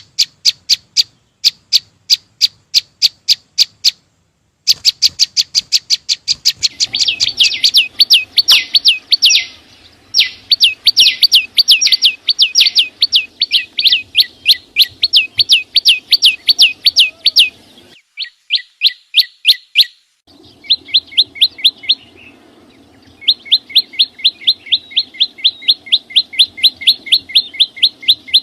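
Small songbird giving rapid runs of sharp, high chirps, about four to five a second, with sudden breaks between runs.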